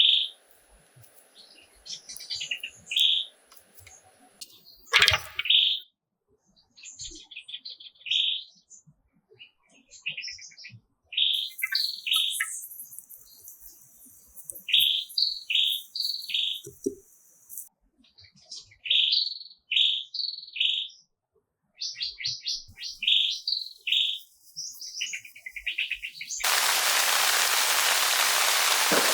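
Forest birds chirping in short, repeated phrases with quiet gaps between them. Near the end, steady heavy rain starts abruptly and covers everything.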